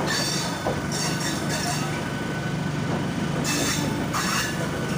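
MEMU electric train rolling slowly along a station platform, with a steady low hum. Brief high-pitched wheel squeals come three times: at the start, about a second in, and again near the end.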